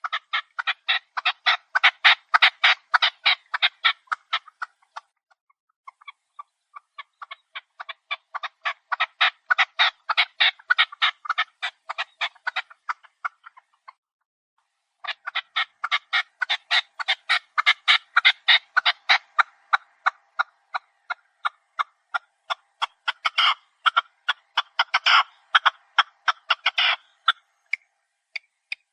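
Chukar partridge calling: fast runs of short, clucking chuck notes repeated several times a second. The calls come in three long bouts, with short pauses about five seconds in and again near the middle.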